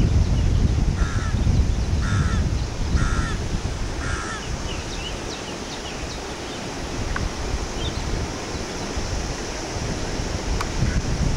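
Birds calling: four harsh calls about a second apart, then scattered high chirps. Wind rumbles on the microphone throughout.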